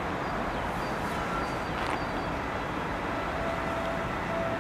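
Steady outdoor hiss and rumble of a railway line, with faint steady tones coming in near the end as an electric train approaches in the distance.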